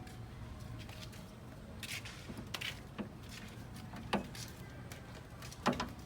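Several sharp clicks and knocks from handling tools and car parts while a fuel system is being taken apart, over a steady low hum.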